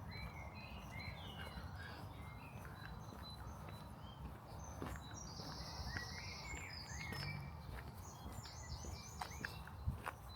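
Several small birds chirping and singing in short notes and trills, over a steady low outdoor rumble.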